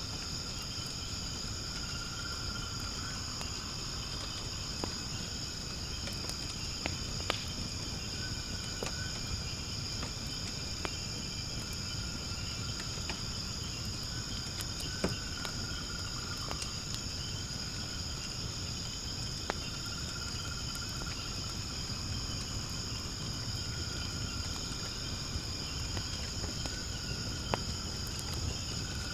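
Firewood burning in a fire-pit stand, with a low steady rumble of flame and scattered sharp crackles and pops. Behind it a steady high-pitched insect chorus, with a lower trill that comes and goes every few seconds.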